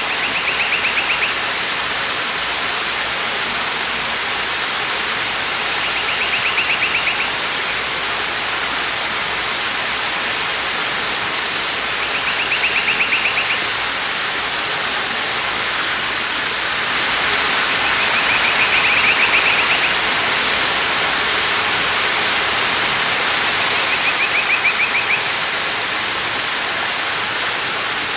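Steady rushing of a waterfall, swelling slightly just past halfway. Over it, a short high trill, about a second long, repeats every six seconds or so.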